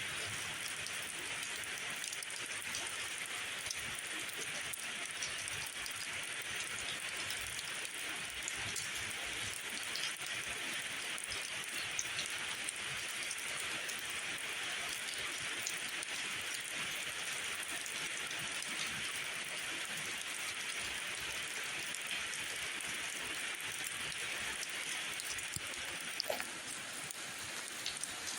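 Steady rainfall, an even hiss flecked with small drop ticks, with one sharper click near the end.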